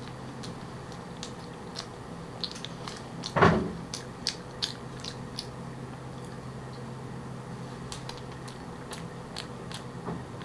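Close-up mouth sounds of chewing a soft cream-and-fruit-filled crepe: scattered wet clicks and smacks, with one louder, longer mouth noise about three and a half seconds in, over a low steady hum.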